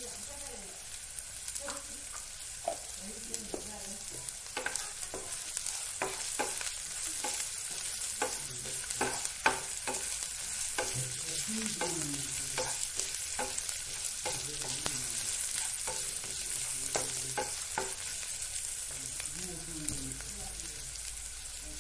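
Sliced onions with ground coriander and cumin seeds sizzling in oil in a frying pan, a steady hiss, while a wooden spatula stirs them with frequent irregular scrapes and taps against the pan.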